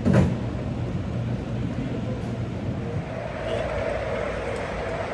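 O-gauge model trains running on a layout, with a steady low rumble that grows a little louder from about three seconds in as a locomotive approaches. A sharp thump right at the start.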